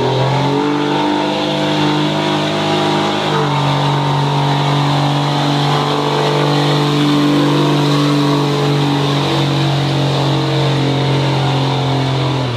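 Diesel pickup truck engine at high revs under full load, pulling the sled. It winds up in the first half second, steps up in pitch about three seconds in, holds steady and loud, then cuts off abruptly near the end as the driver lets off.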